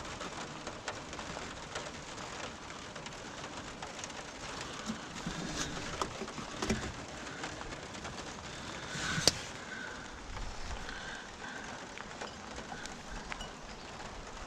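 A steady rain-like hiss, with a few light clicks and knocks, the loudest about nine seconds in.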